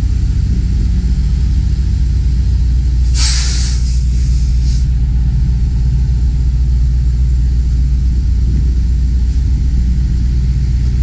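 Semi-truck diesel engine idling with a steady low rumble. About three seconds in, a short burst of hiss lasts about a second and a half.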